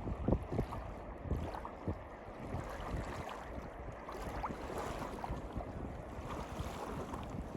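Wind gusting over the microphone: irregular low buffeting over a steady rushing noise.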